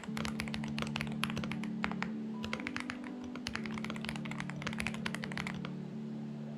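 Typing on a Xinmeng X98 mechanical keyboard: a quick, uneven run of key clicks that stops about a second before the end. Soft background music with sustained low notes plays underneath.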